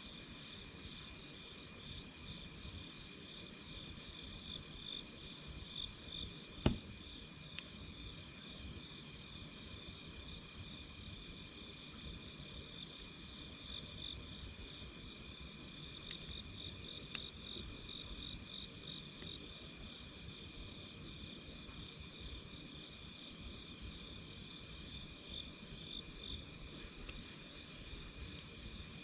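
Campfire crackling softly with occasional pops, one sharp pop about seven seconds in, over a steady high-pitched chirring of insects.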